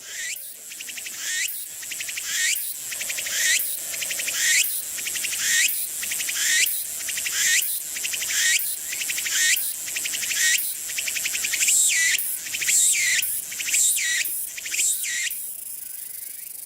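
Tsukutsukuboshi cicada (Meimuna opalifera) singing its phrase over and over, high-pitched, with a rising sweep in each phrase. The phrases come faster toward the end and the song closes in a steady buzz.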